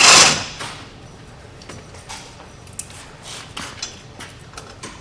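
Metal tools working on a truck's wheel hub: a loud sharp clatter right at the start that dies away within about half a second, then scattered light metallic clinks and taps.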